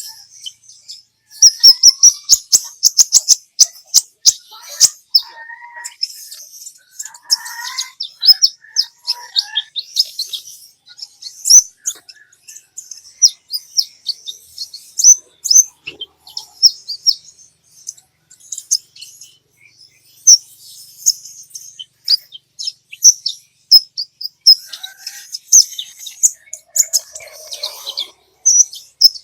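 Kolibri ninja (sunbird) singing hard: dense, fast runs of sharp high chirps and trills, with a few lower warbled phrases mixed in and a short lull about two-thirds of the way through. It is a loud 'gacor' song of the kind played to goad other kept sunbirds into singing.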